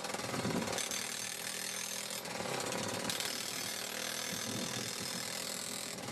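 Atlas Copco Cobra Combi gas-powered breaker, its two-stroke engine driving the hammer, pounding through asphalt with a rapid, steady clatter of blows.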